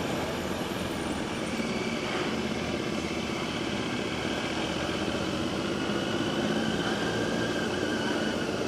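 Motorcycle engine running steadily with road and wind noise, an even hum with no change in pitch.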